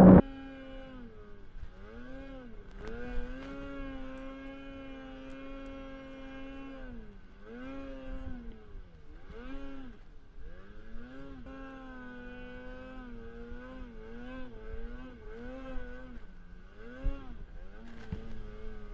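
A vehicle's engine being ridden, its pitch rising and falling over and over as the throttle is opened and let off, with a few longer steady stretches in between.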